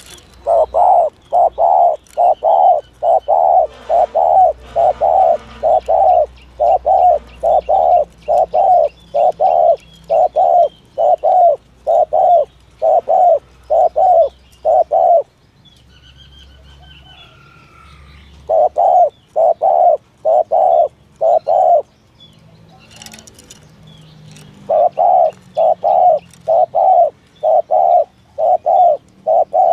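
Spotted dove giving its rapid 'thúc gù' coo: fast runs of short, low coos, about two a second. The runs break off twice for a few seconds before resuming.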